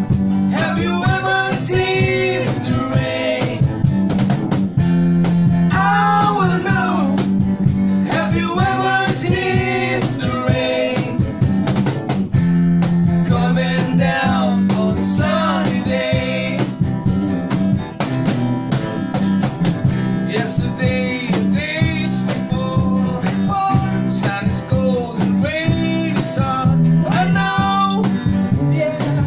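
A band's song: singing over guitar accompaniment, playing throughout.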